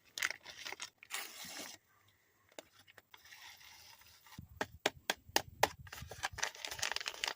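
Packet of dried onion soup mix being handled and emptied into the mixing bowl: papery rustling, a short hush about two seconds in, then a run of sharp, irregular crackling ticks in the second half.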